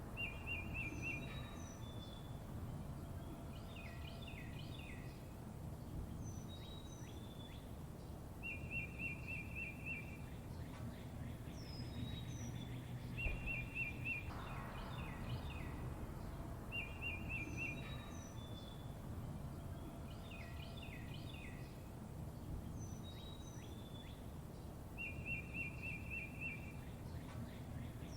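Songbirds chirping, with a short rapid trill that comes back every few seconds among quick falling chirps and thin high whistles, over a steady low rumble.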